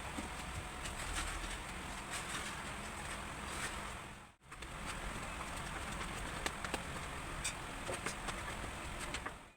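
Food sizzling in oil in a pan: a steady hiss with scattered small pops, broken by a brief cut to silence about four seconds in.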